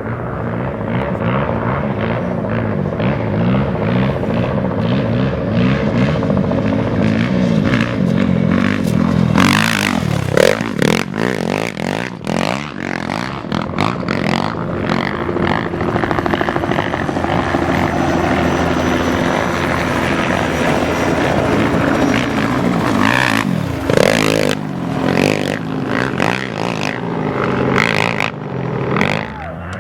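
Off-road race motorcycle engines running and revving, with two loud rushes as they pass close, about ten seconds in and again about two thirds of the way through.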